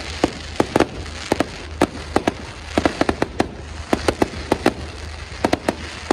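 Fireworks going off in rapid, irregular succession: a string of sharp bangs and pops, about three a second, over a steady low rumble.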